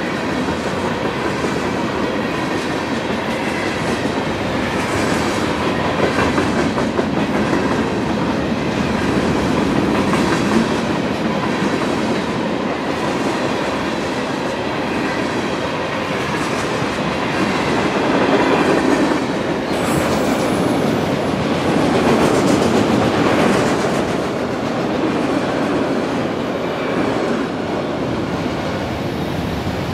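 Freight train cars rolling steadily past, their wheels clattering over the rail joints.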